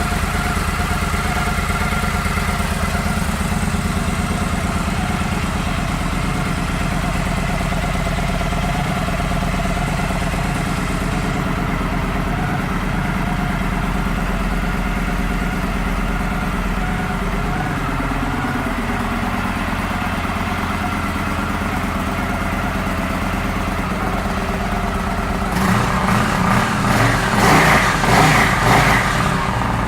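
2015 Victory Gunner's stock Freedom 106 V-twin engine idling steadily, its idle dropping slightly about two-thirds of the way through. Near the end the throttle is blipped in several short revs, after which it returns to idle.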